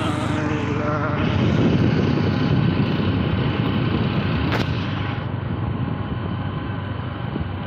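Bajaj Discover 110 cc single-cylinder four-stroke motorcycle engine running on the move, with road and wind noise. A short wavering tone sounds about a second in, and a sharp click comes a little past halfway.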